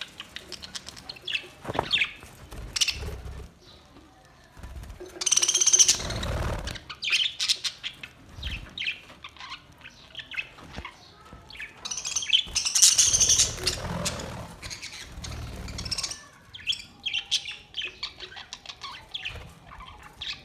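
Budgerigars chirping and chattering in short high calls, with two louder rustling bursts about five and thirteen seconds in.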